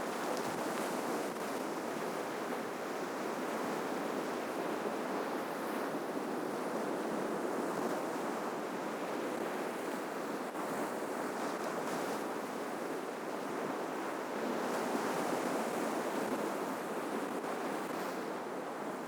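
Ocean waves breaking and washing on the shore, a steady surf with gentle swells in loudness and no other distinct sound.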